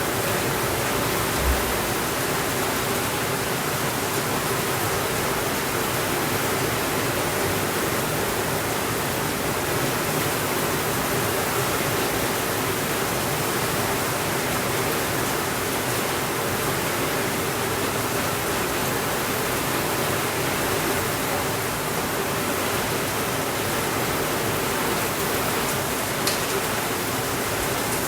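Steady rainfall, an even hiss with no let-up. There is a short low thump about a second and a half in and a single sharp tick near the end.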